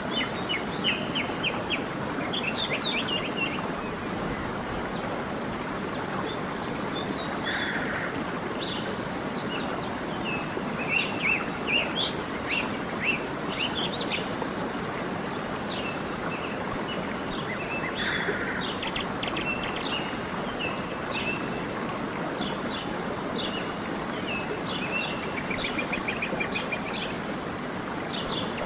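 Small songbirds chirping and twittering in quick high notes over the steady rush of a flowing stream.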